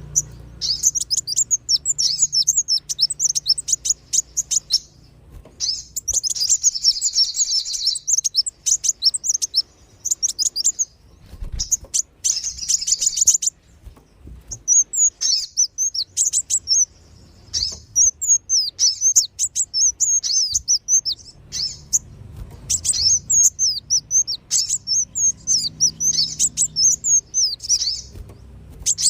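Sunbirds (kolibri wulung and sogon) chirping in fast, high-pitched twittering runs, broken by short pauses, as a recorded bird-lure call. A faint low hum runs underneath.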